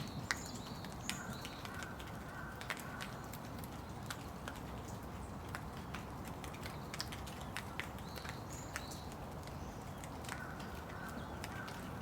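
Steady rain with many separate drops ticking close by, and a bird calling briefly twice, near the start and again about eight seconds later.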